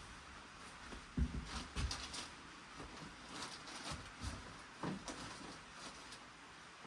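Faint scattered knocks and clicks of small objects being handled and set down, a few light thumps among them.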